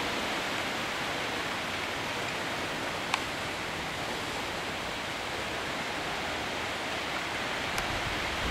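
Steady rain falling, an even hiss, with a sharp tick about three seconds in and a fainter one near the end.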